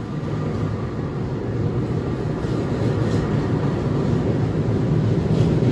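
Train passing straight through the station without stopping: a steady rumble of wheels on rails with a low hum, growing a little louder toward the end.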